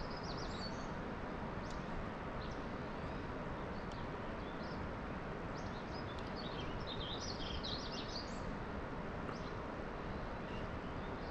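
Birds chirping on and off over a steady outdoor hiss, with a few short high calls near the start and a busier run of chirps around the middle.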